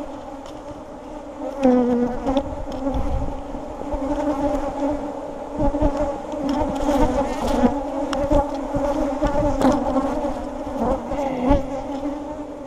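A honey bee colony buzzing around an opened hive: a dense, steady drone whose pitch wavers. The bees are aggravated by the inspection.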